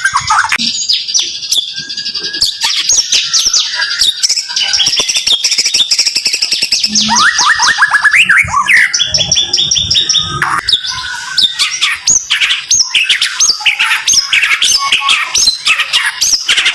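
White-rumped shama (murai batu) singing a fast, close-packed run of high sweeping whistles and trills, the rapid-fire 'tembakan' phrasing, with many sharp clicking notes through it.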